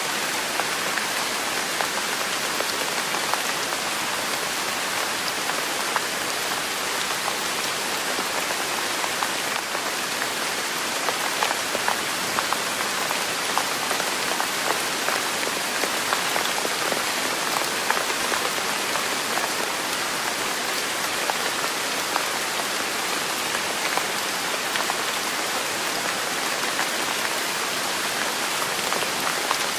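Steady rain falling on a surface, a dense even hiss with many small drop ticks scattered through it.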